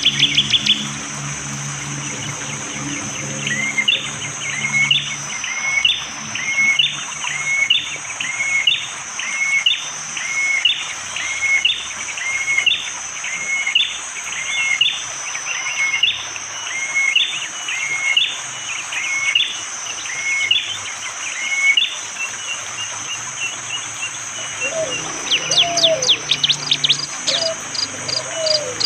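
Prenjak jali, a prinia, repeating a sharp two-note call, a high note then a lower hooked one, about once a second for some twenty seconds. A quick run of high notes comes at the start, and near the end a fast series of high notes comes in along with lower whistled notes, over a steady high hiss of forest background.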